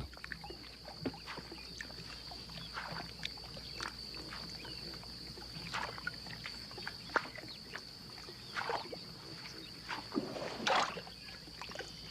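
Swamp water splashing and sloshing in short, scattered bursts, about six of them, the last two the loudest, as a boat lands and someone steps onto a floating peat mat. A steady high-pitched hum runs underneath.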